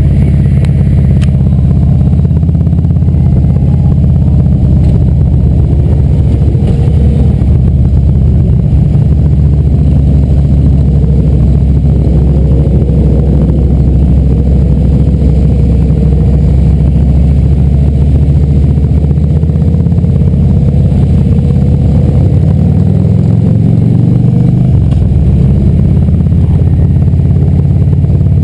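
Motorcycle engines rumbling loudly and steadily, with one engine revving up and dropping back near the end.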